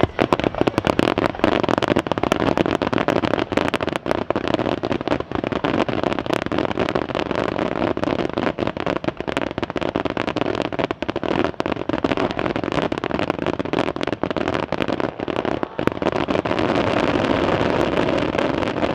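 Dense fireworks barrage: many bursts and crackles overlap without a break.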